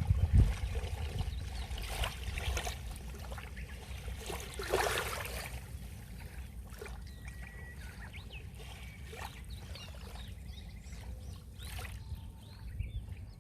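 Sea waves washing onto the shore: a steady deep rumble of surf, with louder rushes of breaking water about two and five seconds in, easing off afterwards.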